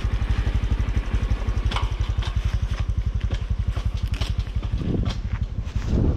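Honda CT125's air-cooled single-cylinder four-stroke engine running steadily, with an even, fast firing beat and a few sharp clicks over it.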